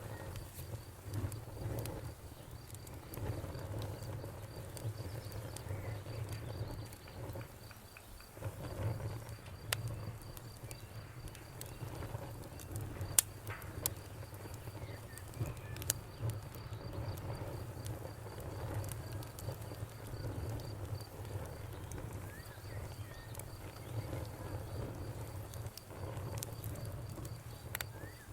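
Fire crackling: irregular sharp pops and snaps scattered over a steady low rumble of the flames.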